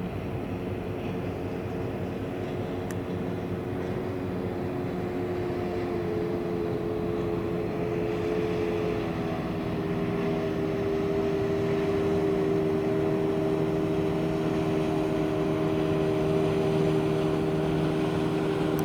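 Ferry's engines running with a steady droning hum of several held tones; the pitch steps slightly about halfway through and the sound grows a little louder.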